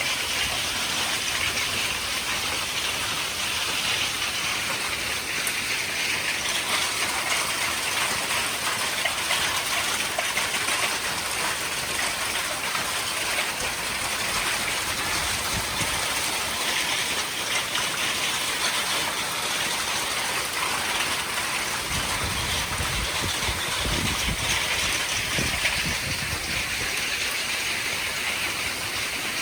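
Heavy hail and rain pounding down in a dense, steady clatter, the hailstones about quarter-sized. A low rumble comes in for a few seconds near the end.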